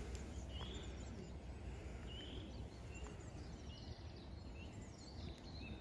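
Faint outdoor ambience: several short, high bird chirps, roughly one a second, over a low steady rumble.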